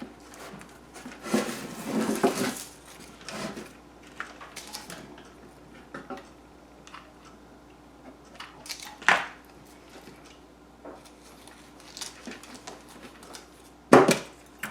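Light clattering and knocks from a metal tin and hot glue gun being handled on a work surface, with a sharp knock about two thirds of the way through and a louder one near the end.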